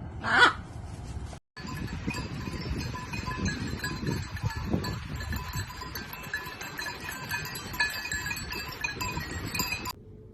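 A brief loud animal call, then, after a cut, many small livestock bells clinking steadily, with a few low animal calls among them.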